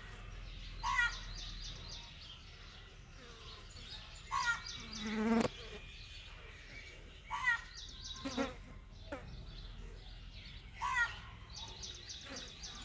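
Birds calling outdoors: short, ringing calls repeated every second or few seconds, with a louder, lower-pitched call about five seconds in.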